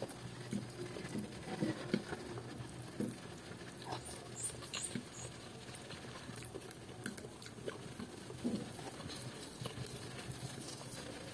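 Close-up eating sounds: chewing and lip-smacking on a mouthful of rice with young-jackfruit curry and fried salted fish, with fingers picking at the food on the plate. The sounds come as many small irregular clicks and soft wet smacks.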